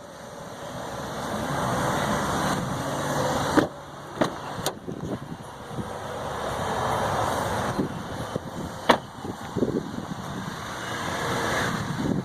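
Vehicles passing by: a rushing noise that swells and fades three times, with a few sharp clicks along the way.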